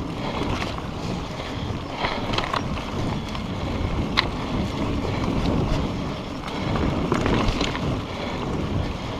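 Mountain bike riding along a dirt trail: steady tyre and wind noise on the microphone, with scattered clicks and rattles from the bike.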